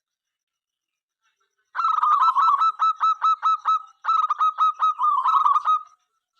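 Zebra dove (perkutut) cooing: two quick runs of short, clipped repeated notes, about five a second, each run lasting about two seconds with a brief break between them.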